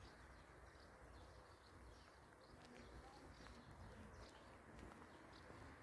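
Near silence with faint, scattered bird chirps in the distance.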